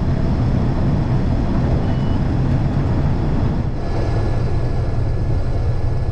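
Case IH 2388 combine running steadily while harvesting wheat: a dense low rumble of its diesel engine and threshing machinery, with a faint high whine joining about four seconds in.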